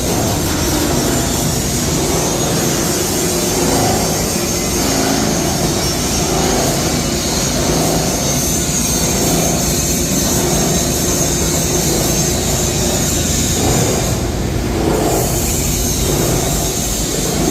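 Industrial scrap plastic washing line for PP raffia and LDPE running: a loud, steady machinery drone with a constant low hum and a high hiss.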